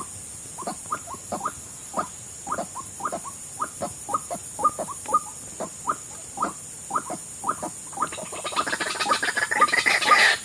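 White-breasted waterhen calling: short calls, each falling sharply in pitch, repeated about twice a second. Near the end the calling turns louder and denser, with many overlapping notes.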